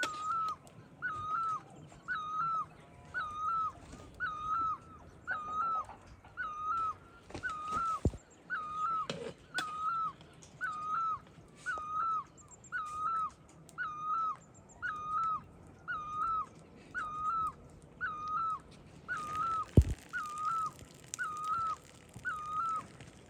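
An animal call, one short hooked note repeated very evenly about once every 0.8 seconds throughout. Two sharp knocks come through, about 8 seconds in and near 20 seconds.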